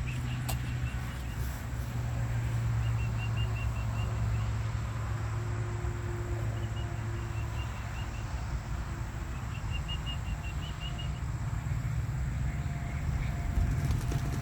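A small bird trilling in several short bursts of rapid high chirps, over a steady low hum.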